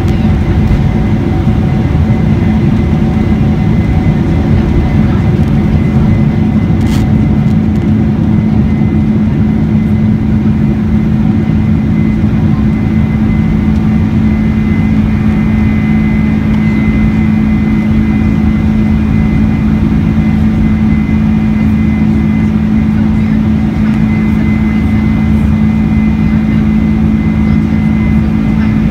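Steady drone of a Boeing 747-400's jet engines heard inside the cabin: a constant rumble with an unchanging low hum.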